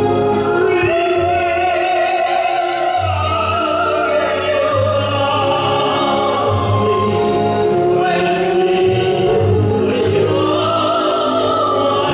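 Operatic-style singing with wide vibrato on long held notes, over a musical accompaniment with a steady bass line.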